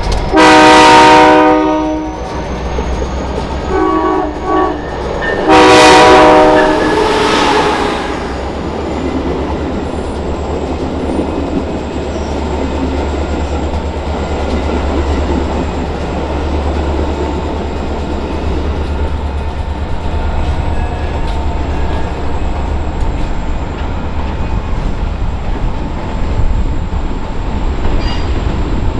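Locomotive air horn sounding a long blast, two short toots and another long blast, followed by the steady rumble and wheel clatter of a train rolling past.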